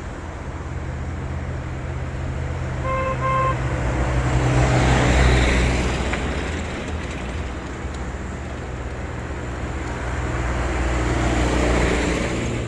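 Diesel truck engine pulling hard uphill, with a short double horn toot about three seconds in. The sound swells as vehicles pass close, loudest around the middle and again near the end.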